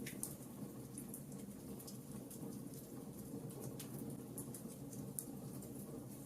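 Wood fire burning: irregular small crackles and pops over a steady low rumble.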